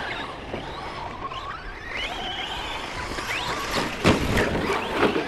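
Electric motors of several Traxxas RC trucks whining as they speed up and slow down, their pitches rising and falling; sharp knocks about four seconds in and again near five seconds.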